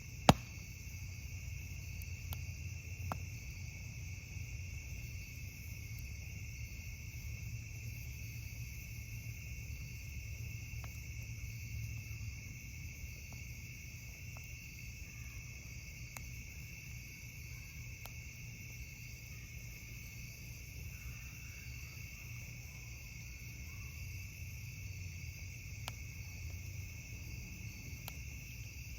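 Steady chorus of crickets trilling at night. A few sharp pops of campfire crackle stand out, the loudest about a third of a second in, over a low steady rumble.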